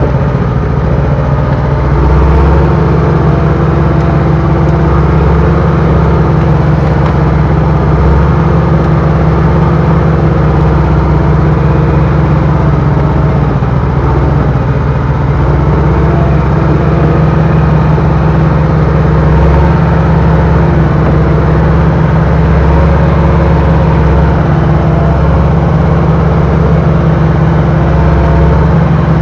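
Bulldozer's diesel engine running loud and steady, with only small changes in speed.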